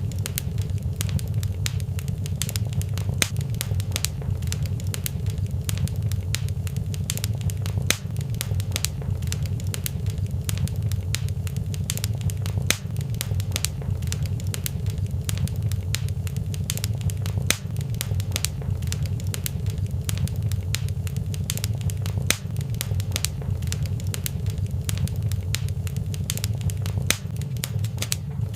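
Wood fire in a fireplace crackling steadily, with many irregular small pops over a low, even rumble of the flames.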